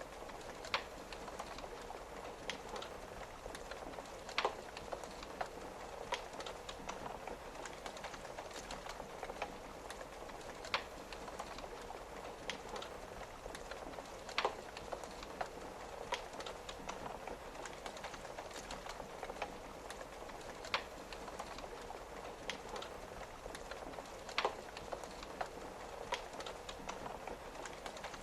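Wood fire crackling, with many small ticks and a sharp pop every few seconds, over the steady patter of rain tapping on a window.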